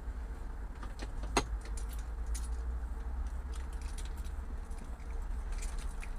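Steady low vehicle rumble with a faint steady hum, overlaid by scattered sharp clicks and rattles, the loudest about a second and a half in.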